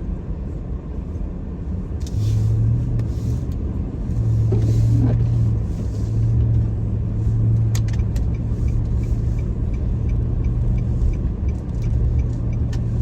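Car cabin noise while driving slowly through snow: a steady low rumble of engine and tyres, with a strong low hum that comes up about two seconds in. Faint regular ticking runs through the second half.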